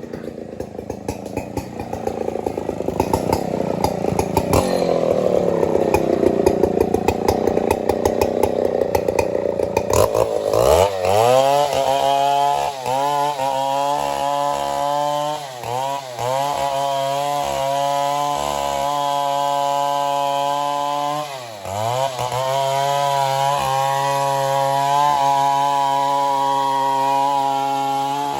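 Stihl 070 two-stroke chainsaw cutting wood under load, its engine note lower and wavering. About ten seconds in it comes free of the cut and screams at high, steady revs, dipping briefly twice as the throttle eases.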